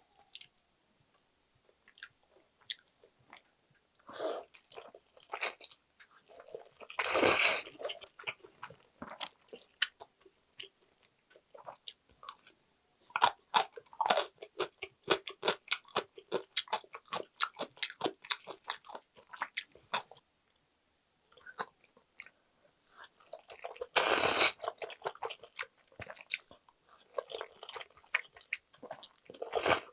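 Close-miked eating of chewy jjolmyeon noodles: a rapid string of wet mouth clicks from chewing, broken by three louder slurps of noodles, one about a quarter of the way in, one past three quarters and one at the very end.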